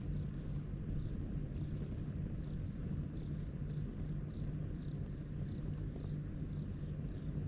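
Night insects trilling steadily in a high-pitched chorus, with a faint chirp repeating a couple of times a second. Under it runs a low steady rumble, and a few faint crackles come from the campfire.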